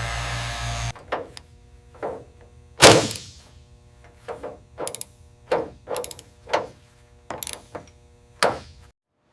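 A steady mechanical drone cuts off about a second in, followed by a run of about ten separate knocks and thunks, the loudest about three seconds in; the sound stops shortly before the end.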